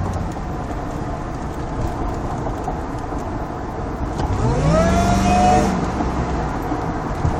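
Ford SVT Lightning's supercharged V8 running over steady road noise; about four seconds in it revs up in a rising whine, holds briefly, then drops away about a second and a half later.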